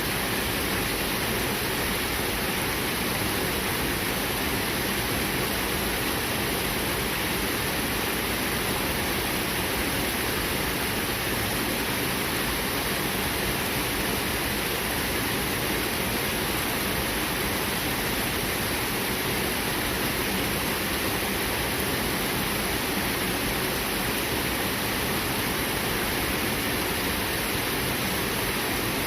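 Clear, fast-flowing river water rushing steadily over its bed.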